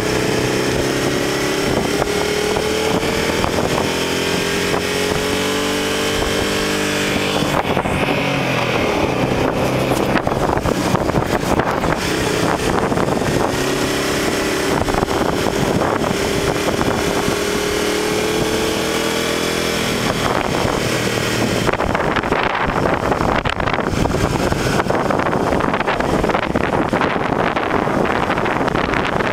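Motorcycle engine under way, its pitch climbing slowly, dropping about seven seconds in, then climbing again. Heavy wind buffets the microphone throughout and takes over in the last third, where the engine is barely heard under it.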